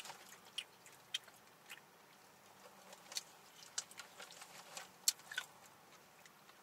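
Close-up chewing and biting of crispy fried chicken: irregular short wet clicks and crunches, the sharpest about five seconds in.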